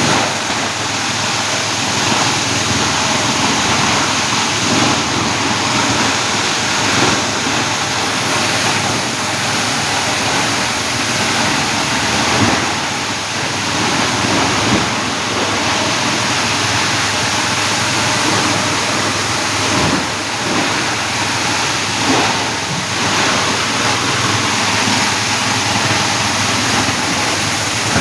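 A 32-inch scrap grinder machine running steadily, with a few louder knocks scattered through.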